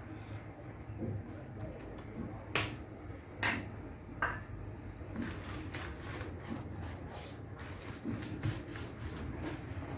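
Kitchen handling sounds: three sharp clicks or knocks in the first half, then lighter knocks and rustling, over a steady low hum.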